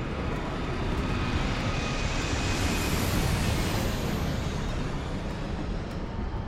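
Low-flying jet airliner passing overhead: its roar swells to a peak about halfway through and then fades away.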